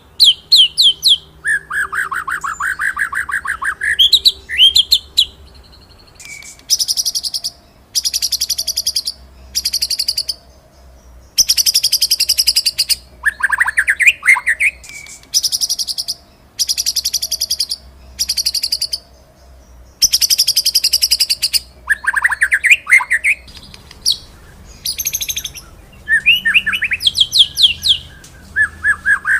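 White-rumped shama (murai batu) singing in a rolling, 'shooting' style: bursts of very rapid, trilled high notes, each lasting a second or two, alternating with sharp falling whistled sweeps, with short pauses between phrases.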